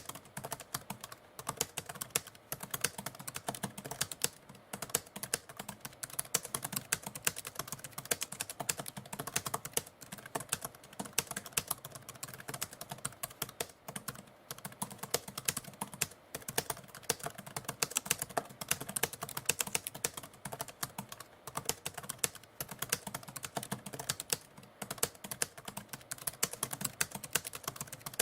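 Typewriter keys struck in a quick, continuous run of sharp key clicks with only brief pauses.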